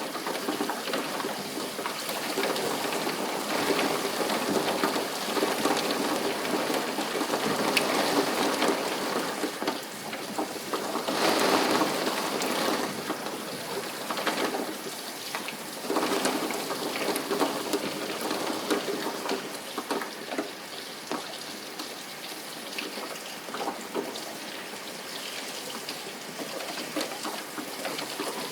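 Steady rain falling, a dense patter of small drop ticks that swells louder for a moment about a third of the way in.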